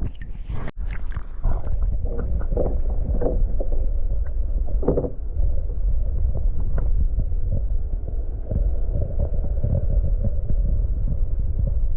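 Wind rumbling on the microphone, a steady low buffeting, with small water sounds mixed in.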